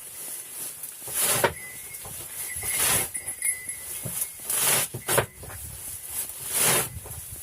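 Goats of a mixed sheep-and-goat herd calling: about six short, rough bleats, a second or two apart.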